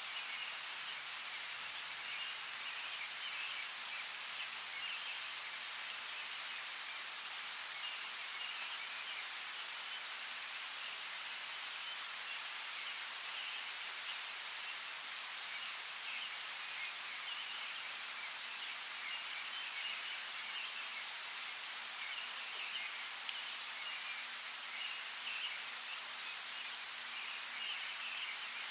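Steady rain with scattered drops ticking on a surface, and birds chirping in short patches now and then.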